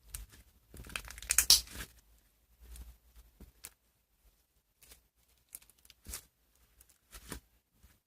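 Slime being handled: a loud, crackly tearing noise of about a second, starting about a second in, then a few short separate crackles.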